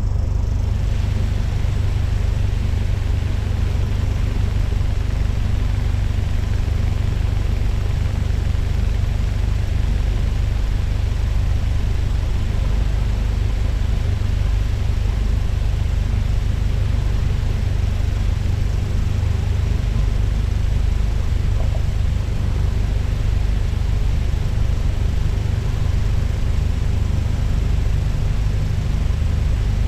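Cessna 172's piston engine and propeller running steadily at low taxi power, heard from inside the cockpit as an even, deep rumble.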